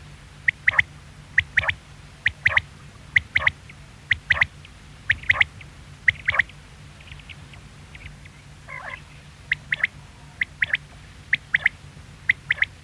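Quail calling: a sharp three-note phrase repeated about once a second, with a short pause and a lower warbled call a little before two-thirds of the way through.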